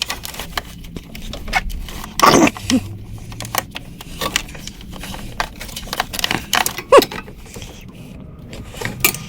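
Hand tools clinking, knocking and scraping on metal parts in a car engine bay as a ratchet and wrench are worked onto hard-to-reach bolts, with a couple of louder knocks about two seconds in and near seven seconds.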